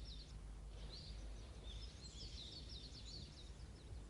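Faint birdsong: a phrase of quick chirps and trills ends just after the start, and a longer one runs from about a second in to near the end, over a low steady background hum.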